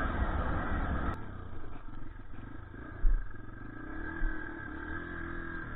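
Dirt bike engine running, its pitch rising and falling with the throttle, with two low thumps about three and four seconds in. For the first second a louder rushing noise covers it, then cuts off abruptly.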